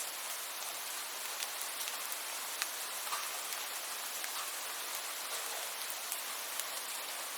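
Steady rainfall: an even hiss with scattered sharp ticks of single drops striking.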